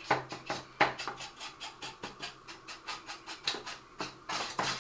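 A brush scrubbing weathering powder onto a plastic model building, in quick rhythmic scratchy strokes about four or five a second, with a denser flurry near the end.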